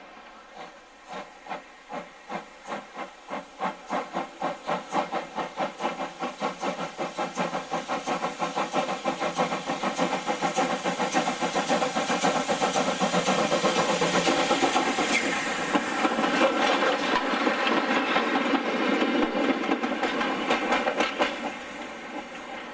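Steam locomotive chuffing as it gets under way: exhaust beats start at about two a second and quicken until they run together into a steady hiss. The sound grows louder to a peak in the middle, then drops away shortly before the end.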